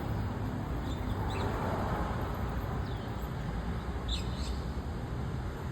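White-cheeked starlings giving a few short, high calls that fall in pitch, two of them close together near the end, over a louder steady low rumble.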